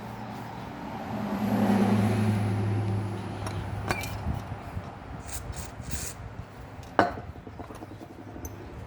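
Workshop work sounds: a low hum swells for about two seconds, then scattered clicks and one sharp knock about seven seconds in.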